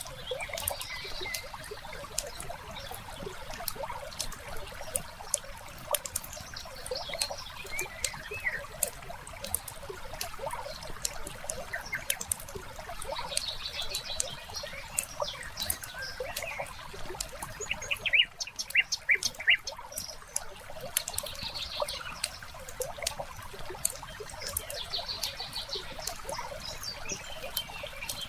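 Wood fire crackling with frequent small pops, and a run of louder pops about two-thirds of the way in. Birds chirp on and off over it.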